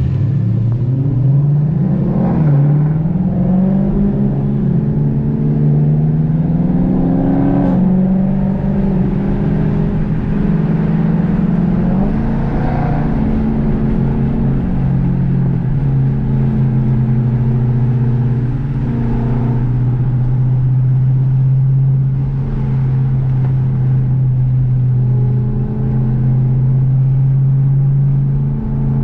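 Dodge Hemi V8 engine and exhaust under way: the pitch climbs and drops a few times over the first eight seconds as it pulls through the revs, then holds a steady drone while cruising.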